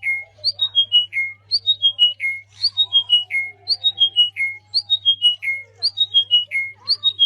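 A bird singing the same short phrase over and over, about once a second: a high whistled note followed by four notes stepping down in pitch. A faint steady low hum lies underneath.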